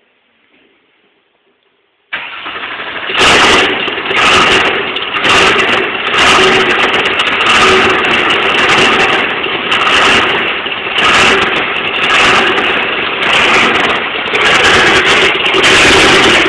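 Porsche 997 Cup race car's flat-six engine cold-starting. About two seconds in the starter cranks, and about a second later the engine catches. It then runs at a loud, uneven idle that surges roughly once a second.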